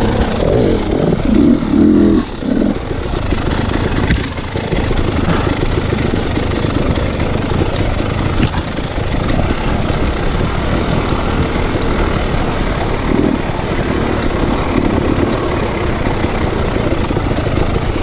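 Dirt bike engine running, with small dips in level around two and four seconds in.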